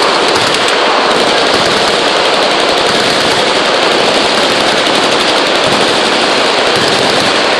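Dense, unbroken automatic machine-gun fire, the shots running together with no pause.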